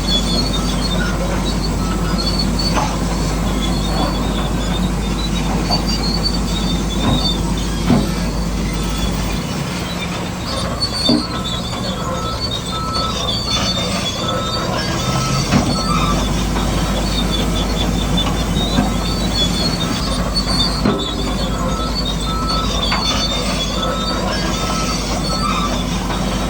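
Tracked earthmoving machinery running: a steady engine drone under high metallic squealing, with a few sharp clanks.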